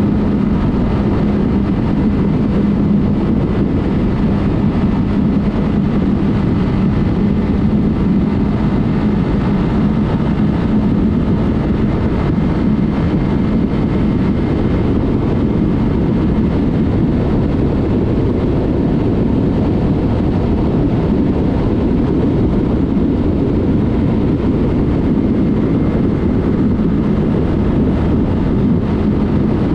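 Yamaha MT-03 parallel-twin engine with an aftermarket Mivv exhaust running at a steady cruise, with a constant engine hum, under heavy wind rush on the microphone.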